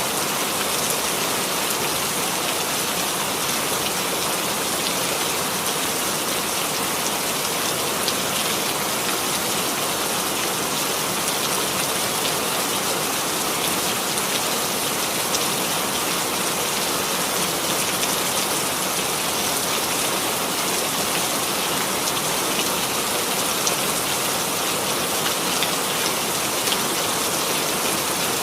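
Steady rainfall, an even hiss of many drops pattering on a surface, with no thunder or change in intensity.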